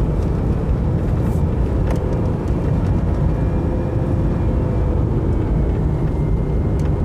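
Car engine revving at about 3,000 rpm in a low gear, engine braking down a steep hill, heard from inside the cabin with steady road noise. It sounds horrific.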